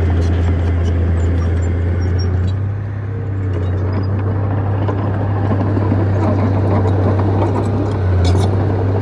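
Bulldozer's diesel engine running under load with a steady low drone, easing off briefly about three seconds in and picking up again near the end, with light clicks and clanks over it.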